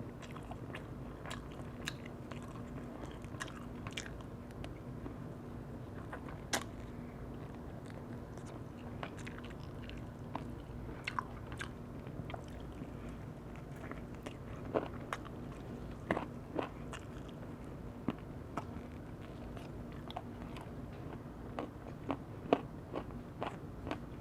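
Close-up eating sounds of roast chicken: irregular bites and chewing, with scattered sharp clicks of mouth and teeth.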